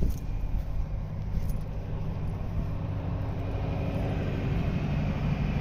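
Construction-site generator running steadily: a continuous low engine hum and rumble with a few steady tones, getting a little louder near the end.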